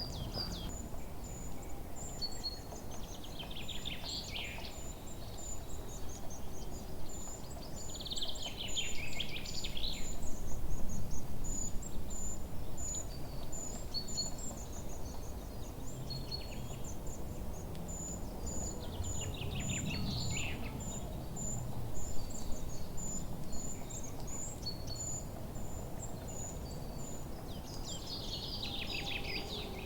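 Forest birdsong: four falling, trilled song phrases spaced several seconds apart, over thin high chirps repeated throughout and a steady low background rumble.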